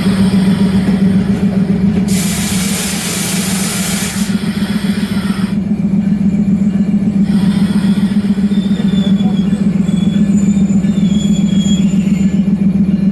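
Diesel train running with a steady low engine drone. A burst of hissing comes about two seconds in and lasts about two seconds.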